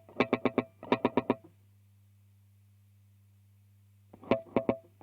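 Electric guitar played through a DemonFX reverb and delay pedal: short phrases of quickly picked notes, then a pause of about three seconds before another phrase starts near the end. A faint steady hum from the rig continues through the pause.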